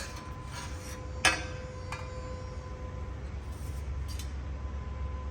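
Tools or metal parts being handled: one sharp clink about a second in and a lighter one shortly after, over a steady low hum and a faint steady tone.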